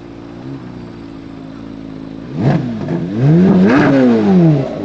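A sports car's engine idling, then revved: a sharp blip about halfway, then a longer rev that climbs and falls back, with a short blip at the very end.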